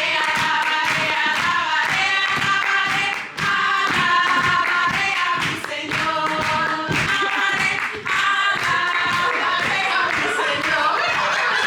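Singing by several voices over a steady clapping beat.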